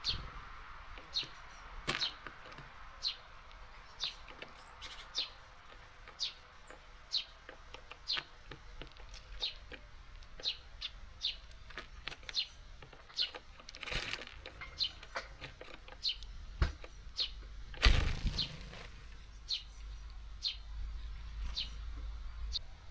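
Small songbirds at a garden bird feeder, giving short high chirps about once or twice a second, with a few louder flutters of wings.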